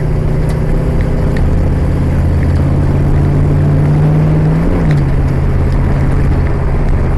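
1976 Mustang's engine running under way, its pitch climbing slowly, then dropping sharply about four and a half seconds in as it shifts up a gear, and running on steady.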